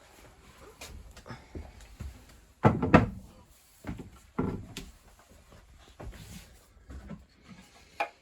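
A few knocks and clatters of objects being handled and set down on a hard surface in a small room, the loudest cluster about three seconds in, with a few softer bumps after it.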